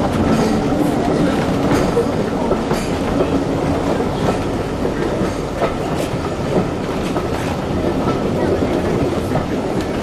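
Heritage railway train running along the line: a steady running noise with irregular clicks of the wheels passing over the rail joints.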